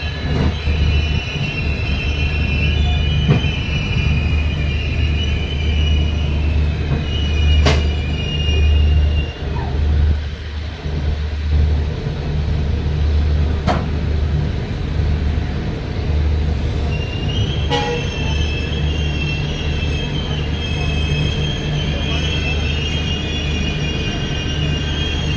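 Express train rolling slowly into a station: a steady low rumble of the coaches, with a high wavering metallic squeal from the wheels in the first few seconds and again from about two-thirds of the way through, and a few sharp clicks.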